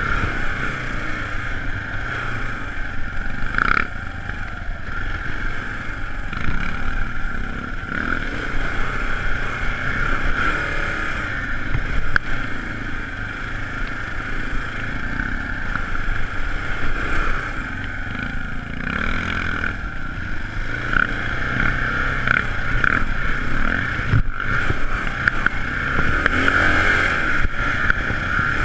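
Kawasaki KLR650 single-cylinder dual-sport engine running under changing throttle while the bike is ridden along a rough dirt single track, heard from on the bike. A few sharp knocks cut through, about four, twelve and twenty-four seconds in.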